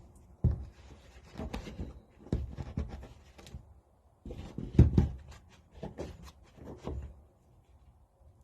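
Small engine parts being handled by hand: an irregular run of clicks and knocks, the loudest about five seconds in.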